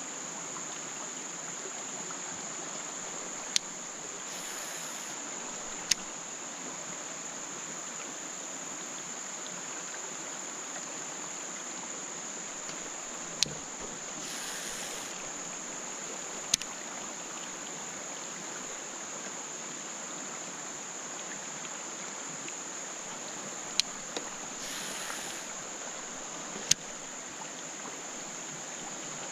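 Steady high insect chorus over a soft water hiss. Three times, about ten seconds apart, a sharp click is followed about a second later by a brief swish and then another click: a fishing reel being cast and re-engaged.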